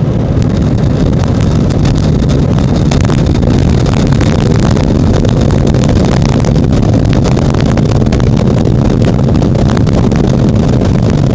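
Airliner cabin noise during landing: a loud, steady low roar of engines and airflow, with many rattles and knocks running through it.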